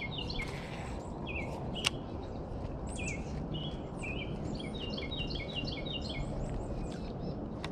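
Songbirds singing in rapid series of repeated short chirping notes, over a steady low background noise. A single sharp click comes about two seconds in.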